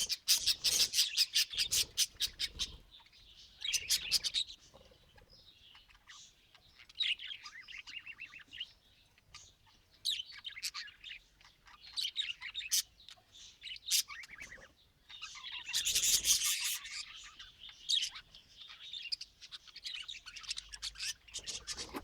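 Budgerigars chirping and chattering in scattered bursts. The first few seconds hold a fast, scratchy run of ticks, and a denser burst of chatter comes about two-thirds of the way in.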